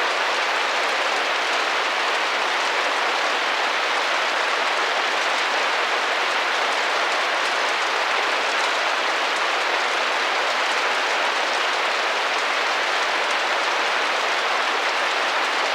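Rain tapping gently against window glass: a steady, even hiss of many drops with none standing out.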